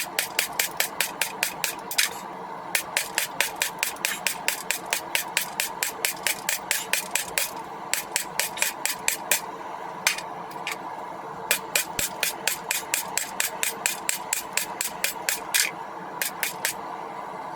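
Blacksmith's hammer striking a hot railroad spike on an anvil in fast runs of about four blows a second, with short pauses between runs, over a faint steady hum.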